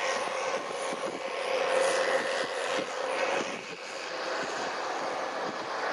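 New Holland T7060 tractor's six-cylinder diesel engine running steadily with a constant drone, with a scatter of small knocks and rattles over it.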